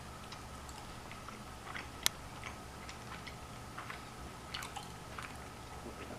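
Close-miked chewing of Flamin' Hot Cheetos: faint scattered crunches and wet mouth clicks, with one sharper click about two seconds in.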